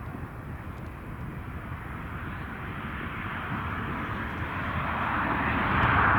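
Jet aircraft approaching, its engine rumble and hiss growing steadily louder as it draws closer.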